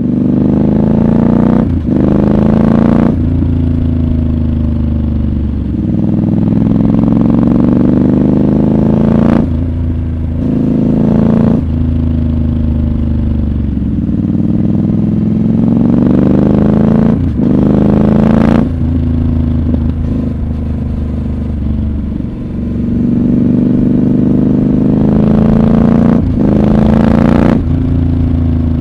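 Triumph Scrambler 1200 XC's 1200 cc parallel-twin engine pulling hard, its pitch rising through each gear with a brief dip at each gear change, and falling back as the throttle is eased off in between.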